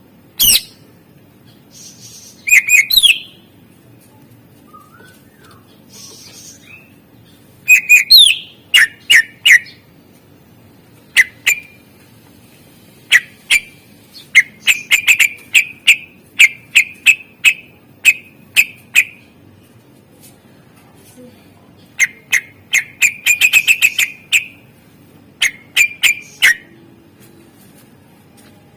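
A cucak ijo (greater green leafbird) singing in loud, separate bursts: sharp down-slurred whistles and quick runs of short chirps, with short pauses between phrases. The song is full of phrases mimicked from other birds.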